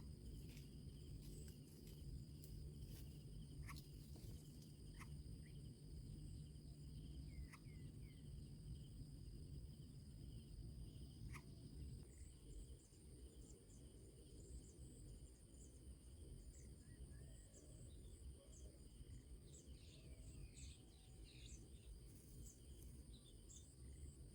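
Faint, steady high trilling of insects such as crickets, with short high chirps scattered through it that come thicker in the second half, over a low background rumble.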